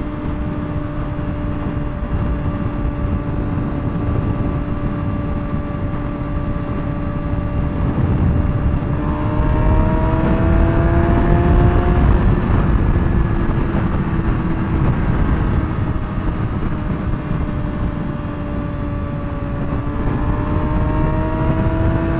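2007 Suzuki GSX-R600's straight-piped inline-four engine running steadily at highway cruising speed, over heavy wind rush. Its pitch climbs a little about nine seconds in, eases back, then climbs again near the end.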